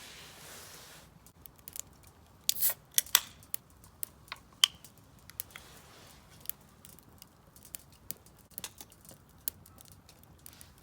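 Wood fire crackling in a Solo Stove Campfire fire pit: irregular sharp snaps and pops, with the loudest cluster between about two and five seconds in.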